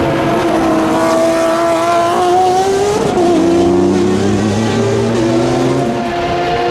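Racing car engines at high revs on track, the pitch climbing steadily, dropping sharply at an upshift about three seconds in, then climbing again; another car's engine joins near the end.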